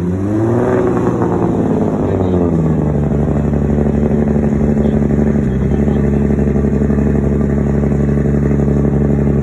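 Nissan Skyline R34's straight-six engine running. The revs rise and fall over the first two or three seconds as the car moves slowly, then settle into a steady idle.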